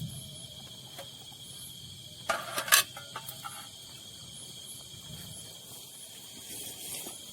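Night insects trilling steadily at one high pitch, with a brief clatter of sharp knocks about two and a half seconds in.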